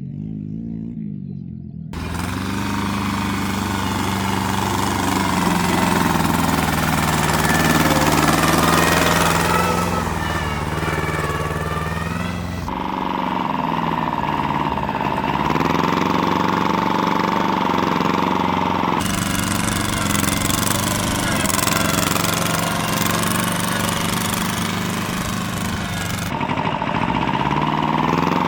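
Tractor engines running and revving, their pitch rising and falling. The sound changes abruptly a few times as one engine gives way to another.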